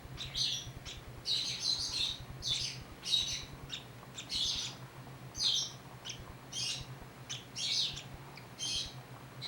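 Baby bird chirping over and over, short high calls coming about every half second.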